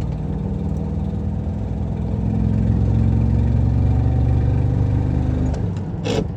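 VW T3 van's engine pulling under load uphill in second gear, its pitch slowly rising for a few seconds and then dropping off about five and a half seconds in. The engine sounds rough, which the owner puts down to an exhaust leak that makes it sound like it is misfiring.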